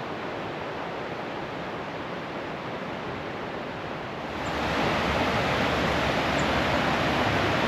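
Steady rush of falling water from a waterfall, getting louder about four seconds in.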